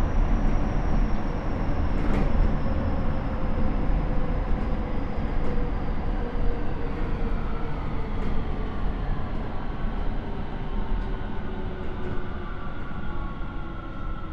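Keio 9000 series electric train heard from inside the car: the Hitachi IGBT VVVF inverter and traction motors whine in several tones that slide steadily down in pitch over wheel-and-rail rumble as the train slows for a station. A few faint clicks from the track are heard.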